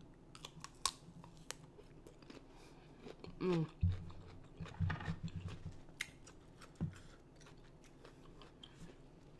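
Close-miked crunching and chewing of a bitten-off chunk of raw cucumber, a scatter of sharp crisp crackles and wet mouth clicks. About three and a half seconds in comes a short, louder low vocal sound from the eater.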